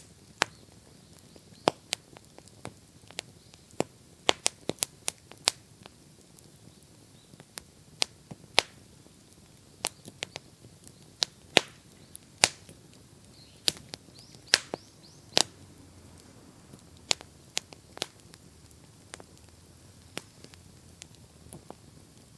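Wood bonfire crackling, with sharp irregular pops and snaps of burning wood, some clustered and some a second or more apart, over a faint steady hiss of flame.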